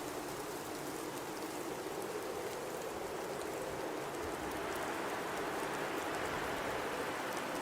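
Blizzard: a steady hiss of high wind and driven snow that swells slightly in the second half, with faint fine ticking.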